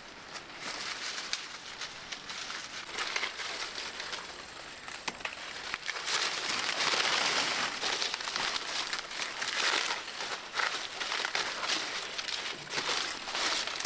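Dense, irregular crinkling and crackling of dry material being handled, getting louder about halfway through.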